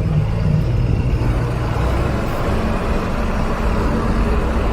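Farm tractor engine running steadily as the tractor drives over freshly spread dirt to pack it down.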